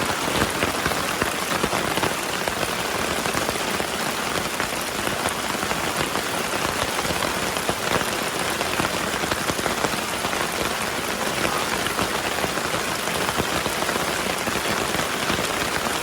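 Steady rain falling: an even hiss of many small drop ticks at a constant level.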